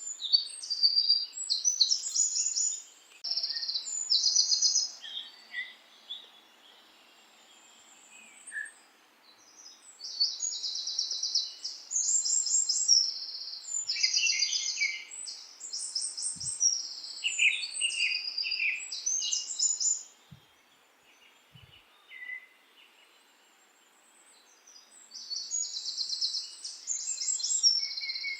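Small songbirds singing high, rapid trills and chirps in bouts, with quiet spells of a few seconds between them.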